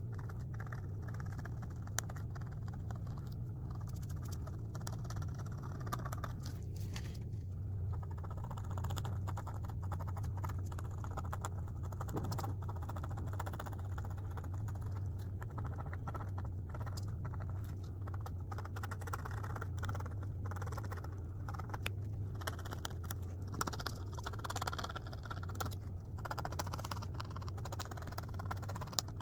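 Gritty scraping and scattered small clicks from a drawing toy being worked, over a steady low hum.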